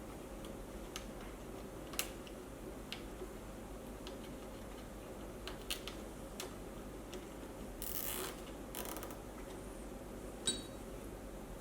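Scattered small clicks and taps of hands working on parts and tools, with a sharper click about two seconds in and another near the end. There are two short rasping bursts about eight and nine seconds in, over a steady low background hum.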